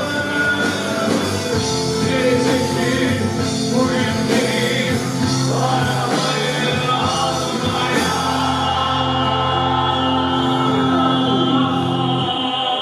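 Anatolian rock band playing live: full band with a strong bass line and held chords, no lyrics picked up.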